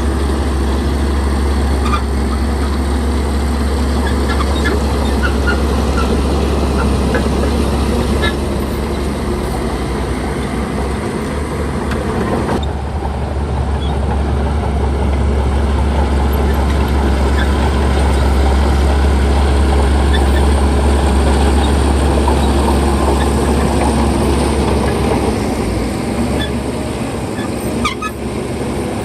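Heavy diesel earthmoving machinery running steadily under load, with a deep low hum and scattered faint clicks and squeaks over the rumble.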